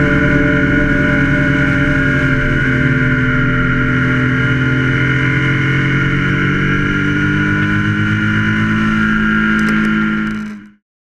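BMW R1200 GS LC's liquid-cooled boxer-twin engine running at a steady cruising speed with road rumble, its pitch creeping slowly upward. It fades out near the end.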